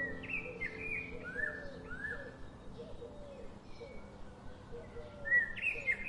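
Birds calling: runs of short, high chirps, one in the first couple of seconds and another near the end, over lower notes repeated every half second or so.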